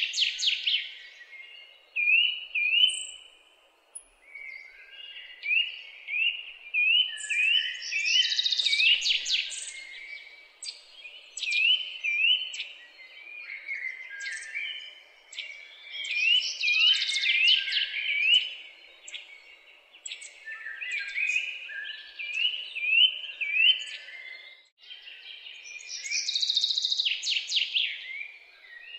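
Songbirds singing: runs of short rising whistled notes, with a louder burst of busy, chattering song about every eight or nine seconds.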